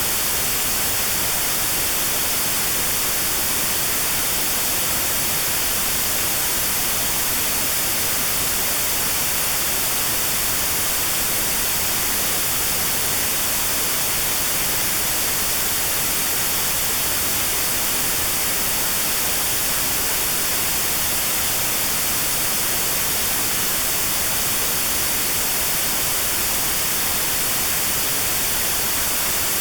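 Steady white noise with a narrow notch cut out around 4 kHz, made as notched sound therapy for tinnitus. The hiss is even and unchanging throughout.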